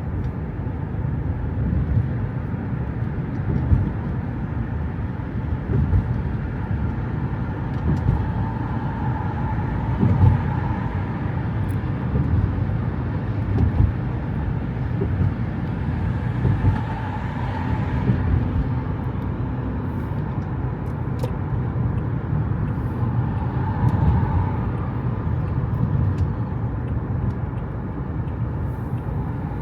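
Motor vehicle noise: a steady low rumble that swells every few seconds, with a few faint clicks.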